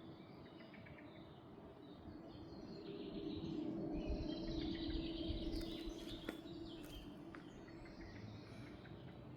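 Small songbirds chirping and singing against a quiet outdoor background. Partway through, a low steady hum swells and then fades, the loudest sound of the stretch.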